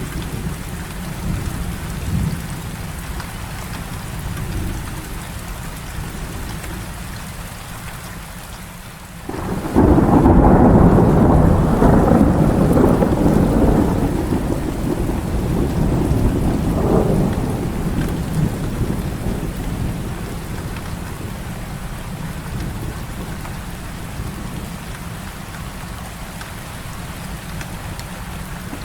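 Heavy rain falling steadily, with a thunder clap about a third of the way in that breaks suddenly into a loud rumble lasting several seconds, swells once more, and then dies away under the rain.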